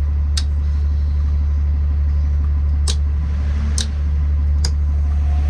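School bus engine idling steadily with a deep, even rumble, heard from inside the bus, with a few sharp clicks scattered through it.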